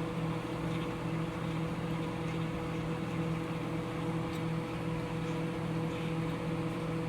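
Microwave oven running with a steady electrical hum, heating a box of microwave popcorn.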